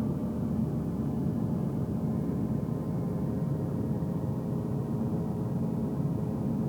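Steady road and engine noise of a car cruising, heard from inside the cabin: an even low rumble of tyres and drivetrain with a faint steady hum over it.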